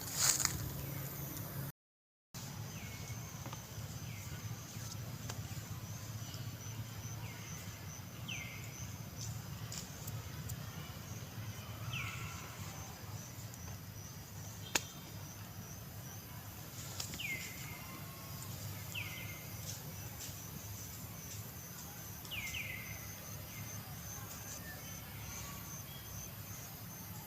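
Outdoor ambience with short, high chirps that slide downward, heard about eight times at irregular gaps of a few seconds, over a steady faint high-pitched trill and a low hum. A single sharp click comes about halfway through.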